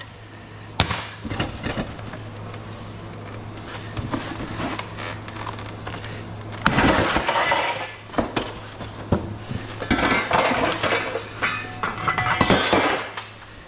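Scrap metal clanking and clattering as parts are broken off and handled, with scattered knocks and longer bursts of clatter in the middle and near the end. A low steady hum runs underneath and stops about halfway.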